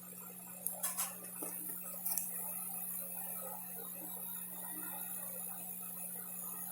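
A few light clicks, a cluster about a second in and two more near two seconds, over a steady low hum and hiss.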